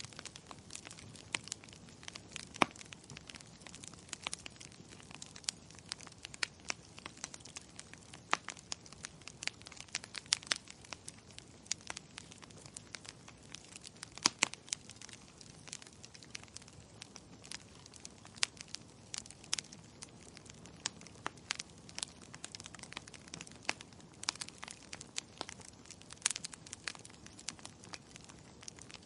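Wood fire crackling: irregular sharp pops and snaps over a soft steady hiss, with a few louder pops now and then.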